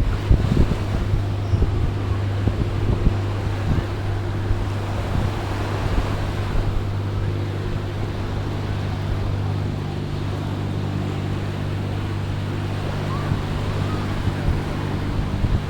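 Surf and wind at the seashore, with wind buffeting the microphone and a steady low engine hum running underneath.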